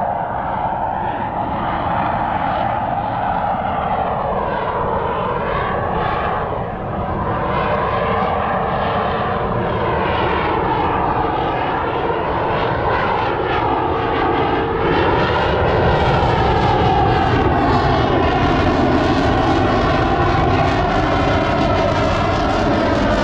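F/A-18 jet engines running loud and continuous as the fighter flies its airshow display, with a sweeping, shifting tone as it moves across the sky and a swell in loudness in the second half.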